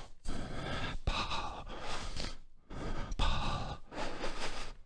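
A person breathing audibly in and out while exercising, about four breaths.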